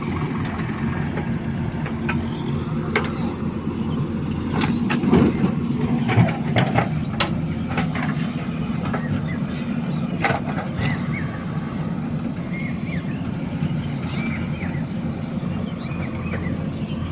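Diesel engine of heavy machinery running steadily, with a cluster of metallic clanks and knocks about five to seven seconds in and another around ten seconds. Faint short high chirps follow near the end.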